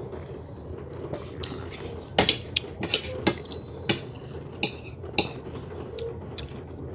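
Cutlery clicking and knocking against a plate: about eight sharp, short clicks bunched in the middle few seconds, over a steady low hum.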